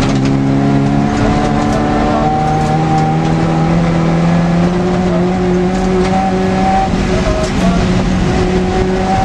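Škoda 100 rally car's rear-mounted four-cylinder engine running hard under load, heard from inside the cabin over road and tyre noise. The engine note shifts pitch about a second in, climbs slowly, steps up again near five seconds and dips near seven.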